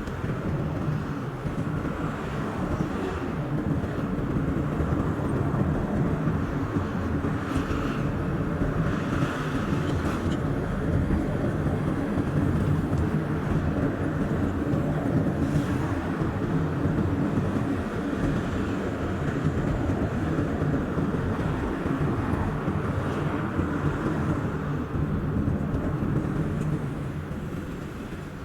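Car road noise while driving, played back at double speed: a steady rumble of engine and tyres on the road, easing off near the end.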